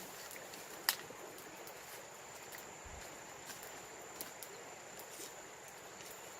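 Outdoor ambience with a steady high-pitched insect drone. A single sharp click sounds about a second in, and a few fainter clicks follow later.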